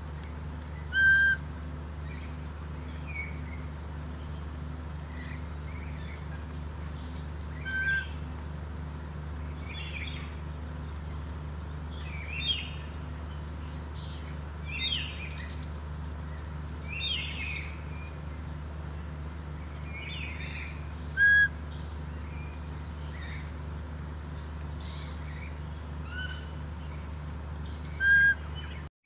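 Birds calling: scattered short chirps and several brief, clear whistled notes, the loudest about a second in, twice mid-way and once near the end. A steady low hum runs underneath.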